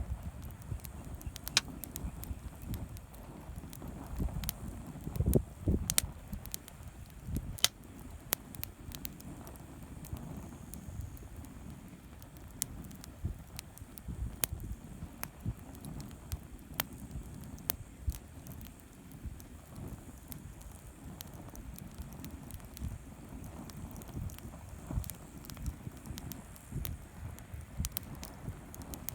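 Wood campfire crackling, with irregular sharp pops and snaps over a low, steady rumble; a cluster of louder pops comes about five seconds in.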